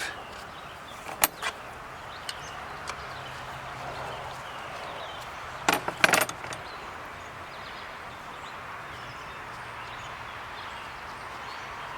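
A few sharp clicks and taps from a screwdriver working a stubborn screw on the cover of a Perkins diesel's mechanical lift pump: one about a second in, and a louder cluster about halfway through.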